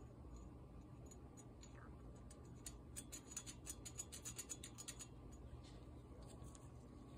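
Faint light clicks and ticks from small parts being handled on a workbench, a quick run of them in the middle, over a low steady room hum.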